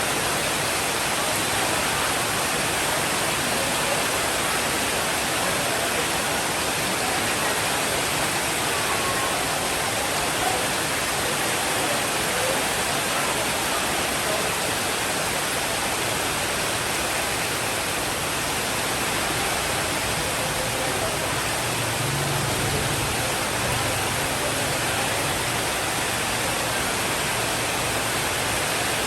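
Steady, dense rainfall making an even hiss, with a low rumble of distant thunder building in the second half.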